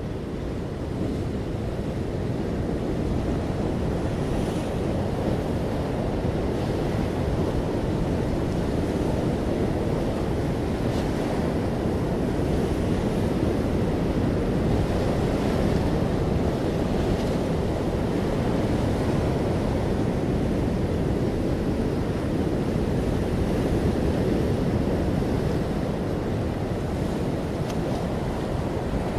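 Ocean waves surging and washing on a shore, a steady rush that swells and eases slowly.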